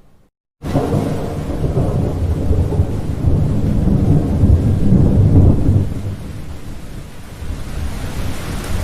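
Thunder rumbling loudly over rain, starting abruptly after a moment of dead silence. It eases about six seconds in to steady rain with a fainter rumble.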